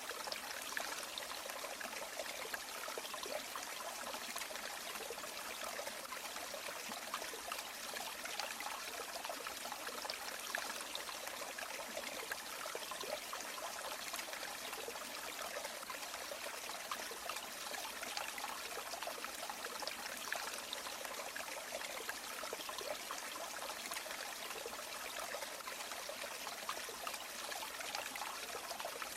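A shallow river or stream running steadily over stones, a continuous bright babble and trickle of water with no change.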